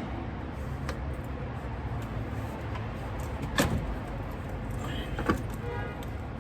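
Two sharp knocks of tools or parts being handled during engine teardown, about three and a half and five seconds in, followed by a brief faint ringing, over a steady low background hum.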